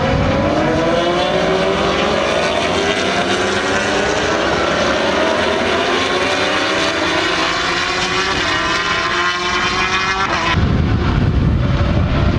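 Racing motorcycle engines at high revs, their pitch climbing steadily for about ten seconds as the bikes accelerate. Near the end the sound changes abruptly to a heavier, lower engine noise.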